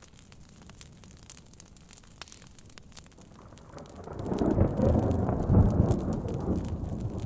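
Wood fire crackling with small pops over soft rain, then about three and a half seconds in a loud low rumble of thunder swells up, peaks and slowly fades.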